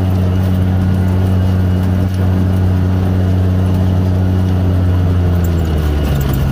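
Off-road vehicle engine running at a steady pitch, dropping in pitch near the end as it slows or shifts.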